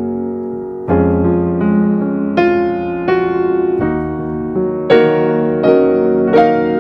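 Background piano music: a slow melody of single struck notes over sustained chords.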